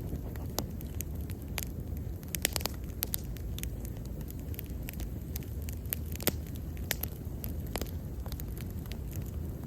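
Wood bonfire burning: a steady low rumble of flames with frequent sharp crackles and pops at irregular intervals, a cluster of louder pops about two and a half seconds in.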